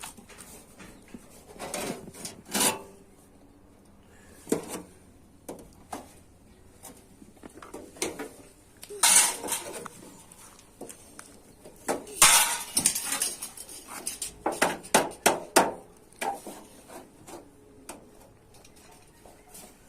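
Metal clanking and knocking at irregular intervals as a sheet-metal bread pan is worked by hand, with two longer scraping stretches about nine and twelve seconds in.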